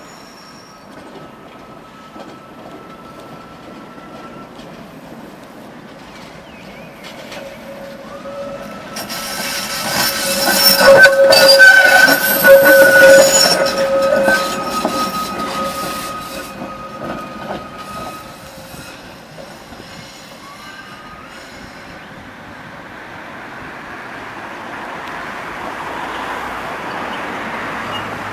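Tram passing close by, its steel wheels squealing on the rails in steady high tones; it grows loud about ten seconds in and fades away a few seconds later. Near the end a rising rush of noise as another vehicle approaches.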